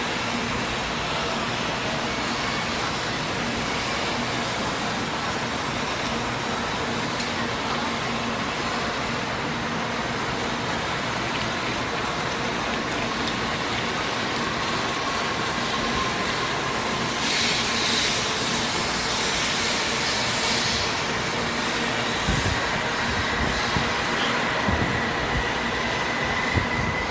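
N700 series Shinkansen train pulling out of the station under power, with a steady rush of running noise. Its motor whine rises in pitch through the second half as it gathers speed. There is a brief burst of hiss about two-thirds of the way through, and a few low knocks near the end.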